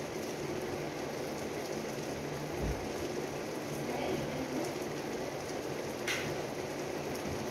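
Light rain falling on the street, a steady even hiss of drops. A dull thump comes about two and a half seconds in and a short click about six seconds in.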